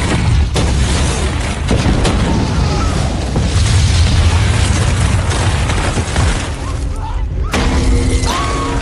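A massive film explosion rumbling on with a deep roar and scattered sharp cracks, under a music score.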